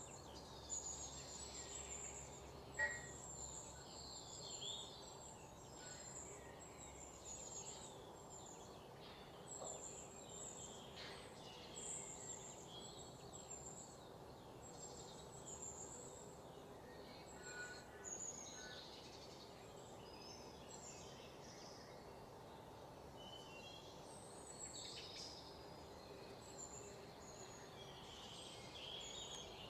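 Faint chirping of small birds, short calls scattered throughout, over a steady low background hum.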